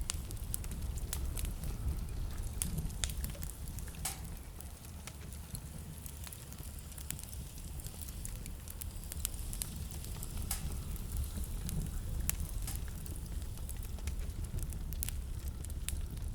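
Fireplace fire crackling, with irregular sharp snaps and pops over a steady low rumble.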